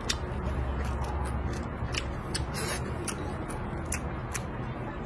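A person chewing food close to the microphone, with irregular crisp clicks and wet mouth sounds, about two or three a second.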